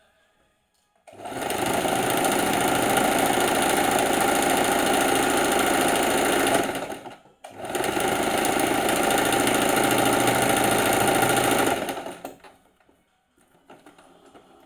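Sewing machine running in two stitching runs of about five seconds each, stopping briefly between them.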